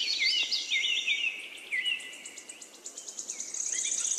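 Birdsong: a run of quick chirps and short sliding whistled notes, then a fast, high, evenly pulsed trill from a little past the middle.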